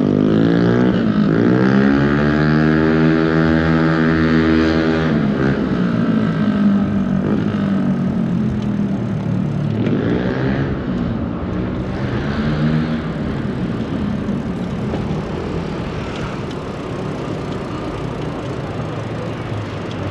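Motor vehicle engines in city traffic: one engine accelerates close by, its pitch rising and then holding for a few seconds, and a second rises again around ten seconds in. Steady traffic noise follows.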